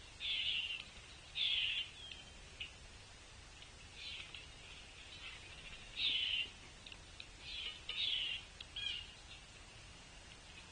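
Wild birds calling at a feeder, in short harsh calls about half a second long that come every second or two.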